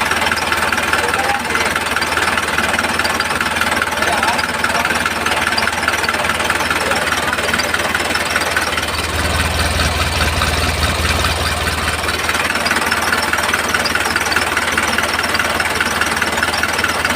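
A small motor running steadily, with a deeper low hum that swells from about nine to twelve seconds in.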